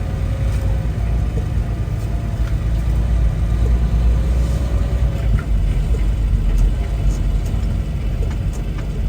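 Steady low rumble of a semi-truck's engine and running gear, heard inside the cab.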